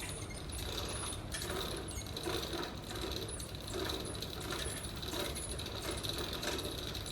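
A machine running with a steady low rumble and a high whine, with a repeated clicking or ratcheting about every two-thirds of a second.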